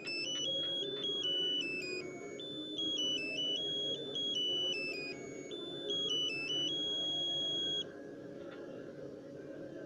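Scher-Khan Logicar car alarm key fob's piezo buzzer playing a melody of single high beeping tones that step up and down in pitch, stopping about eight seconds in; the repaired fob powering up and sounding its alert melody as it should.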